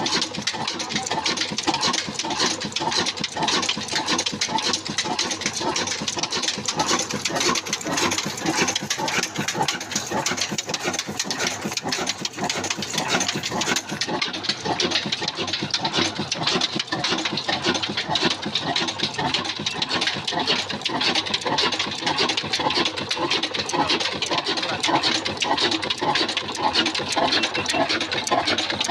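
Old desi diesel engine running steadily with a fast, even knocking beat, driving a flour mill (aata chakki).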